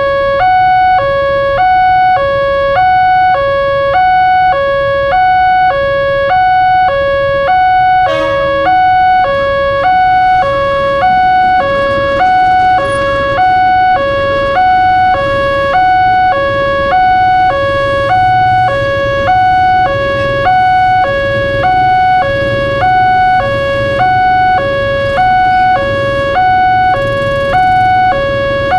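Railroad crossing warning alarm sounding its two-tone electronic chime, a higher and a lower note alternating evenly, about one pair a second. A low rumble underneath grows louder partway through, and there is a brief sharp knock about 8 seconds in.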